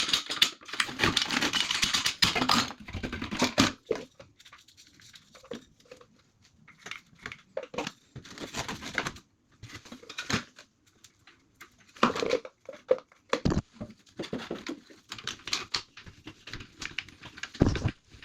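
Hands at work on basin pipework: rustling and crinkling for the first few seconds, then scattered clicks and knocks of fittings and clips being handled and put on.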